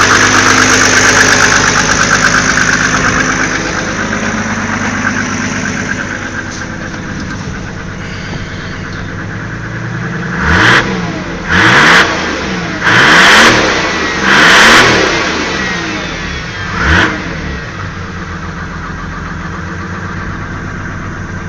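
Mercedes-Benz OM606 3.0-litre straight-six turbodiesel with a mechanical injection pump, running and easing down to idle, then revved in five quick throttle blips starting about ten seconds in, each rising and falling sharply.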